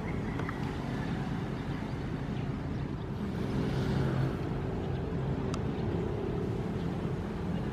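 Ocean surf: a steady low rush of waves, with one wave swelling and washing in louder about four seconds in.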